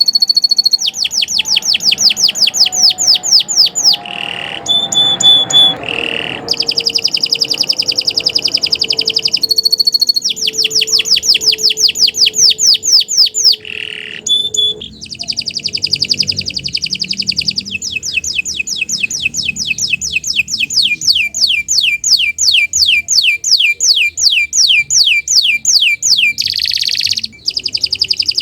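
Domestic canary singing a long, loud song made of high, rapid trills. Each phrase repeats one note about four or five times a second, then switches after a few seconds to a different or faster roll, with only brief breaks.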